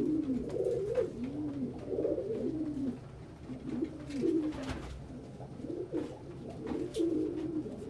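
Several domestic pigeons cooing in a loft, low rolling coos overlapping one another without a break, with a few faint clicks among them.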